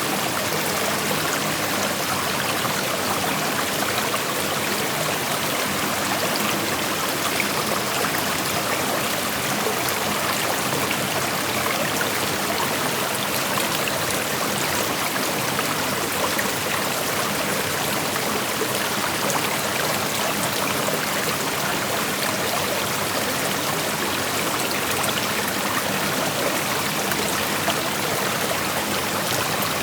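Shallow creek water flowing steadily over rocks: an even, unbroken rushing with light trickling.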